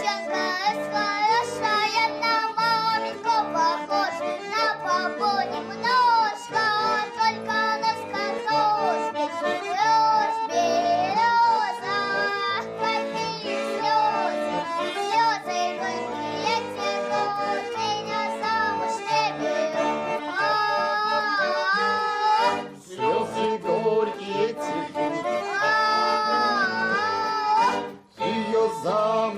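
Folk music played on an accordion, with a high, bending melody line over the chords and two brief drops in level near the end.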